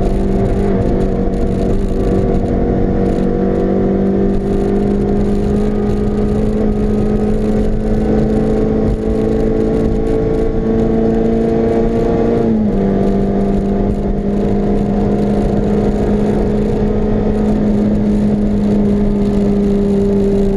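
Honda CRX's four-cylinder engine pulling hard at high revs, heard from inside the cabin, its note slowly rising. About two-thirds of the way through the pitch drops suddenly as the driver shifts up a gear, then climbs again, over steady road and wind noise.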